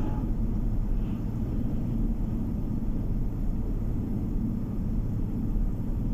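Steady low rumble of a car on the move, with road and tyre noise and engine, heard from inside the cabin.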